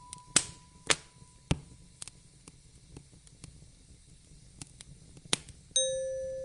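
Wood fire crackling with a few sharp pops over a soft low hiss. Near the end a single soft chime note rings out and slowly fades.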